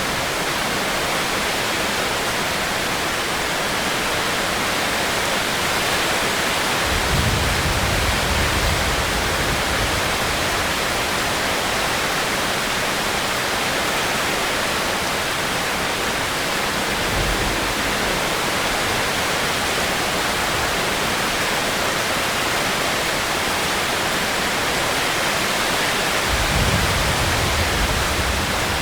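Rain falling steadily as a dense, even hiss, with a low rumble swelling twice, about seven seconds in and again near the end.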